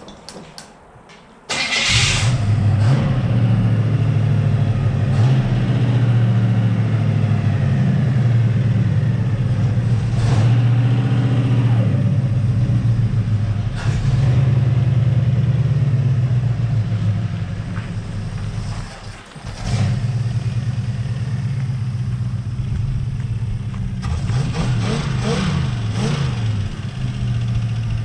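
The 1968 Buick Skylark's V8, swapped in from another Skylark, fires about two seconds in and runs with a steady drone. About two-thirds of the way through it sags briefly and nearly dies, then picks back up. Near the end it is revved up and down a few times.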